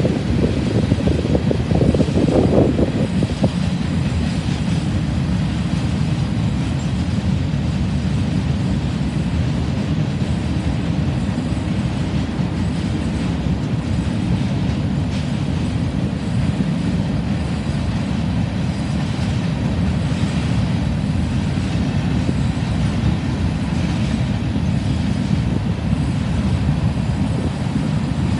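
Empty coke train's hopper cars rolling by, a steady low rumble of steel wheels on rail. A brief louder swell comes about two seconds in.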